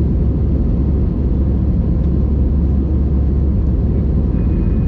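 Steady, loud low rumble of an Airbus A320's engines and airflow, heard inside the passenger cabin.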